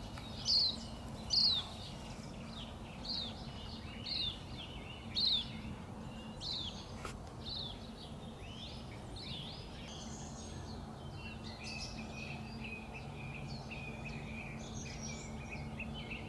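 Wild birds singing: a run of short, loud, falling chirps about once a second, giving way about halfway through to softer, continuous twittering. A steady low hum runs underneath.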